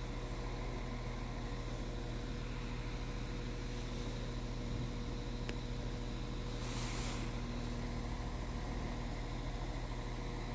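Steady idling hum of a diesel multiple unit standing at the platform, its engine and auxiliaries giving a constant drone with a few fixed tones. A brief hiss comes about seven seconds in.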